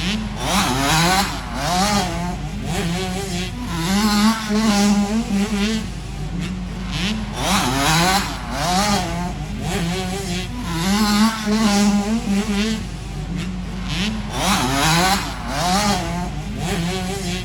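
Motocross bikes' engines revving hard as they race, the pitch climbing and dropping over and over as riders open the throttle and shift, with a strong surge every three to four seconds.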